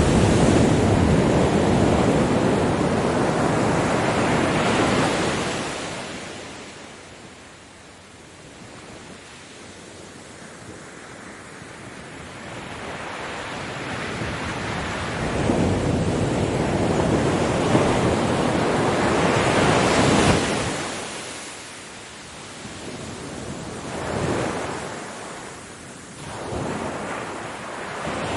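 Ocean waves breaking on a beach, the surf swelling and falling away in slow surges, with a long lull between the first break and the next.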